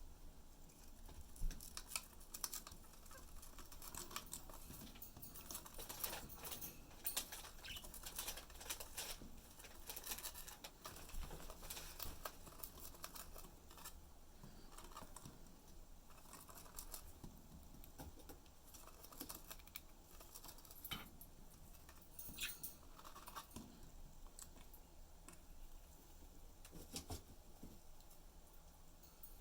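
A budgerigar tearing and chewing a cardboard paper roll with its beak, making faint, irregular clicks, crackles and rustles.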